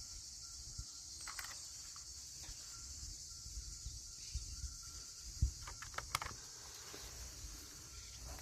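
A steady, high-pitched chorus of insects, with scattered clicks and low knocks of handling over it; the loudest knock comes about five and a half seconds in.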